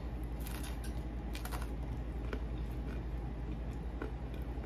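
A person chewing a mouthful of pizza on naan bread close to the microphone: scattered soft ticks and mouth clicks over a steady low hum.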